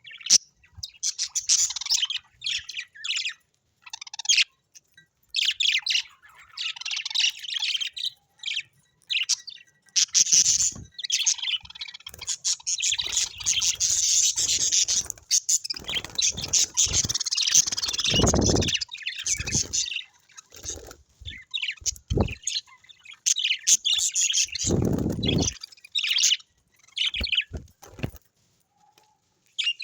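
Small birds chirping and twittering in quick overlapping bursts, with a couple of short low rumbling thuds about two-thirds of the way in and again near the end.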